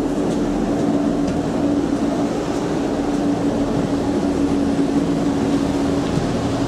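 Steady running noise inside a Class 144 diesel multiple unit, with a steady hum over it that stops about six seconds in.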